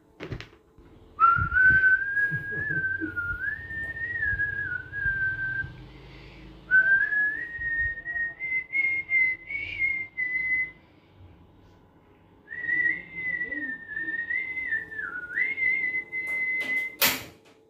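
A man whistling a wandering tune in three long phrases with short pauses between them, over light knocks from his work; a sharp loud clack comes near the end.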